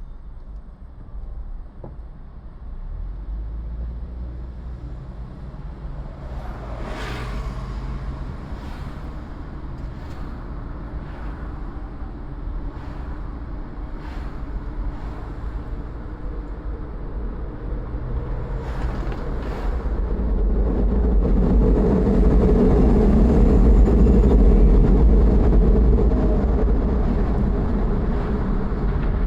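A car driving on city streets: steady engine and road rumble, with a series of short knocks through the middle. The rumble grows louder about two-thirds of the way through.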